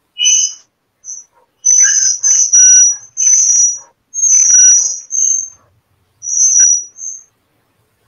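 Small bird chirping and whistling in short, loud, high-pitched bursts, about one a second, with silent gaps between them.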